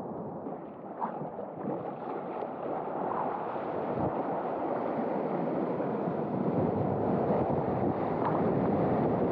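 Rushing water and surf, with a few small splashes in the first couple of seconds, growing steadily louder.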